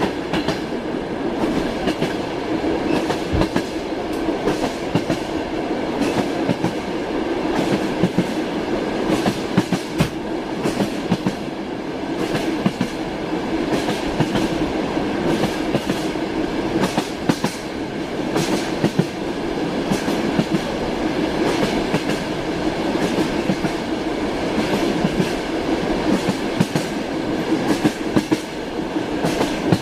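Train wheels clattering over rail joints as the train runs along the track: a steady rumble with a hum, broken by frequent sharp knocks.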